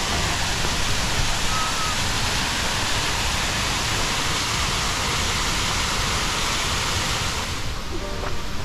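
Waterfall rushing: a steady wash of falling-water noise that drops away abruptly near the end.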